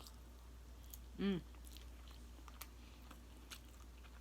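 Close-miked mouth sounds of someone chewing jerk chicken: faint wet clicks of chewing. A brief voiced sound from the throat comes about a second in and is the loudest moment.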